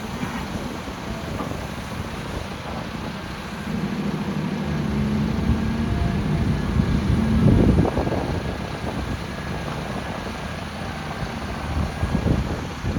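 LiuGong 950E excavator's diesel engine running under working load. The engine note rises about four seconds in and peaks near eight seconds with a rough burst of noise, then settles back.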